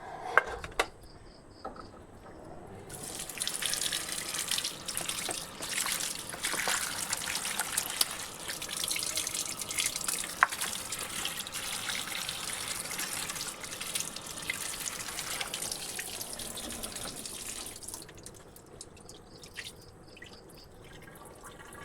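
Water running from a tap and splashing into a sink or basin for about fifteen seconds, then stopping; a couple of sharp knocks come just before it starts.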